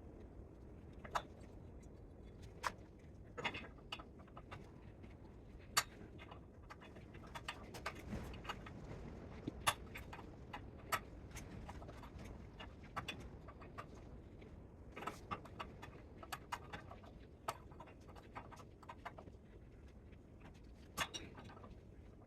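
Irregular metallic clicks and clinks of hand tools and metal parts being handled while a spot welder is taken apart for scrap, with a faint steady background hum.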